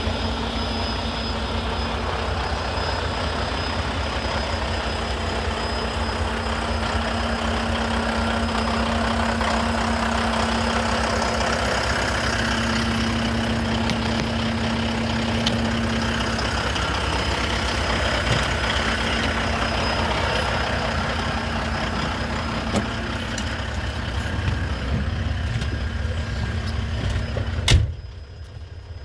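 Diesel engine of a Volvo VNL semi tractor idling steadily, a low rumble with a constant hum over it. Near the end a sharp click, after which the sound briefly drops quieter.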